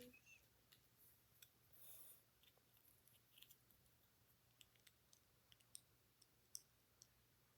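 Faint, irregular clicks and taps of small plastic Lego pieces being handled and fitted together, a dozen or so scattered through the quiet.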